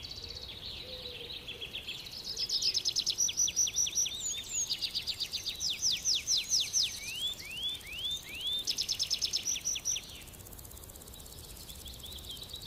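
A small bird singing fast trills of sharp, high whistled notes in several runs, with a few rising whistles near the middle. A faint steady hiss of oil deep-frying lies under it.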